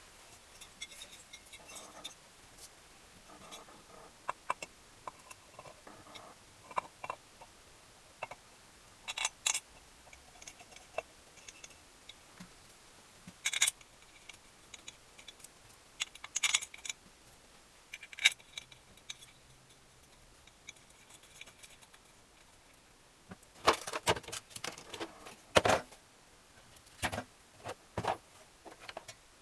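Small metal engine parts and hand tools clinking and clicking as they are handled during engine assembly. The sound comes as scattered light taps, with a busier run of clinks about three-quarters of the way through.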